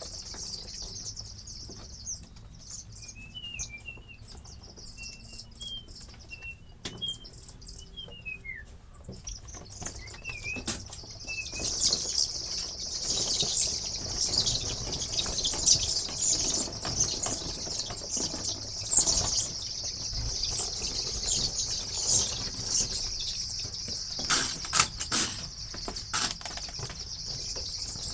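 A flock of broiler chickens peeping in the chicken house, with a few separate chirps at first; the chirping grows denser and louder about twelve seconds in, over a rustling haze. A short run of sharp knocks near the end.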